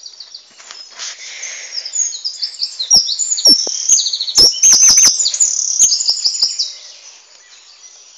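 Small birds chirping in rapid, overlapping high calls, swelling about a second in and dying down near the end, with a few sharp clicks mixed in around the middle.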